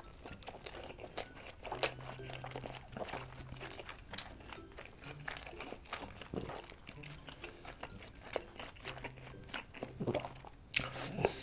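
Close-miked chewing of a mouthful of giant steamed meat dumpling with its thick dumpling skin: soft, wet mouth noises and many small clicks, with a few short closed-mouth hums.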